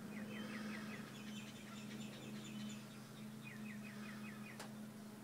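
A small bird singing two quick runs of short falling chirps, over a steady low hum. A single sharp click sounds near the end.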